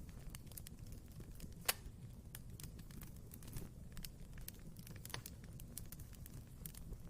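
Wood fire burning in a fireplace, with a low steady rumble and frequent small crackles, and a sharper pop of burning wood about two seconds in and another a little past five seconds.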